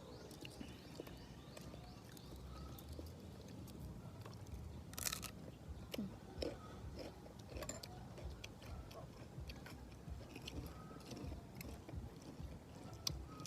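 A person eating close to the microphone: wet chewing with crunchy bites and small mouth clicks, and a sharper crunch about five seconds in.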